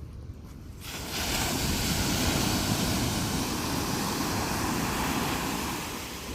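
Ocean surf breaking and washing up the beach: a steady hiss that swells up about a second in over a low rumble, easing slightly near the end.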